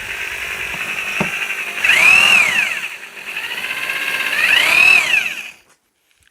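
Rotary hammer drilling into a fireclay brick, its motor whine rising and falling in pitch twice as the bit works. It stops about five and a half seconds in.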